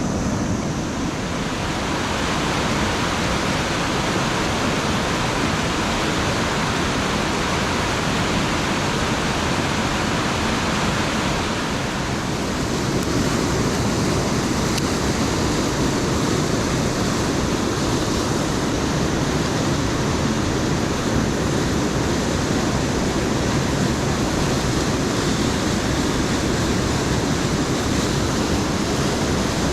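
Rushing water of a mountain headwater stream, a steady loud roar of cascading water. About 12 s in it turns slightly louder and deeper.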